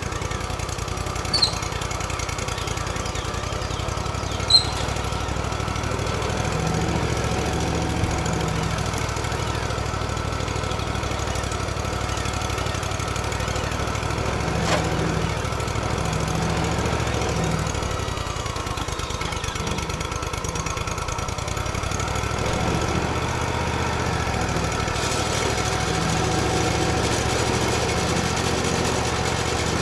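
Portable bandsaw sawmill's engine running steadily as the mill saws a log, with two brief sharp clicks in the first few seconds.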